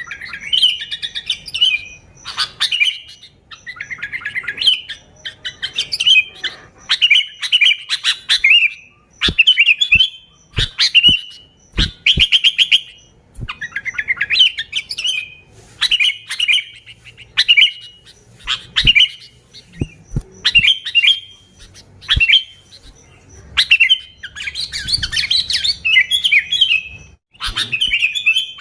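Sooty-headed bulbul (kutilang) singing lively, bubbly chirping phrases, repeated every second or two, with sharp clicks among them.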